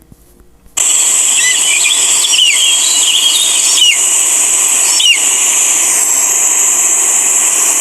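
Layered stock forest sound effects: a steady high insect buzz with bird chirps and short falling calls repeating every second or so. It cuts in suddenly about a second in.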